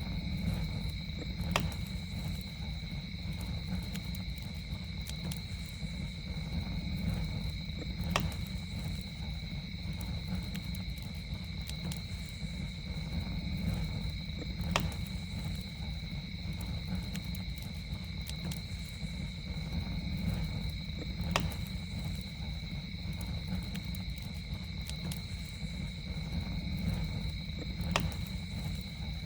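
Campfire burning with a steady low rumble and sharp wood pops, the strongest about every six and a half seconds with fainter crackles between. Under it runs a continuous, steady high-pitched drone of night insects.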